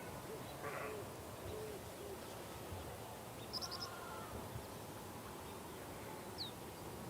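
A bird giving three or four short, low hooting calls in the first two seconds, then brief high chirps from small birds about halfway through and again near the end, over a steady outdoor hiss.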